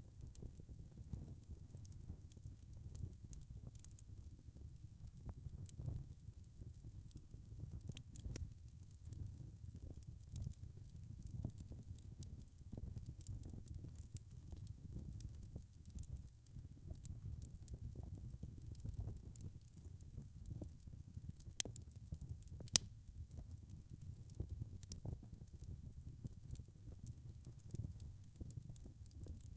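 Wood fire crackling in a fireplace: a low steady rumble of flames with scattered small pops, and two sharper snaps a little past the middle.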